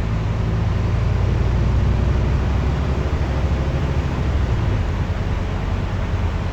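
Scania N230UD double-decker bus's diesel engine working hard under load, a deep steady engine note over road noise, shifting slightly about four seconds in.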